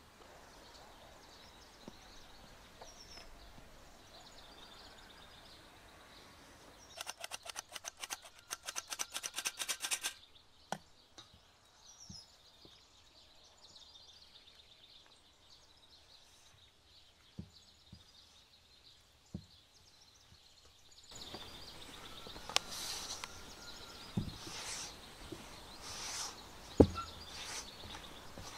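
Outdoor ambience with birds chirping, broken by handling sounds of cooking: a quick run of several strokes a second for about three seconds roughly a quarter of the way in, then scattered clicks and a few sharp knocks near the end.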